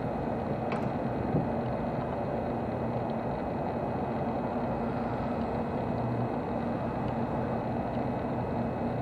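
Steady hum and rushing noise of a standing limited express train's onboard equipment running as the train is readied for service, with a faint click about a second in.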